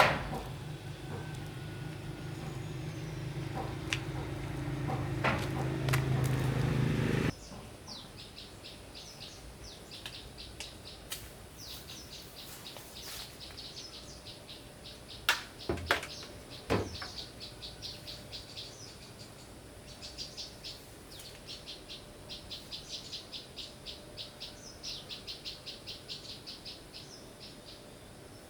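A machine's steady low hum, rising slightly, then cutting off suddenly about seven seconds in. After it, rapid repeated high chirping in short trains, with a few sharp clicks in the middle.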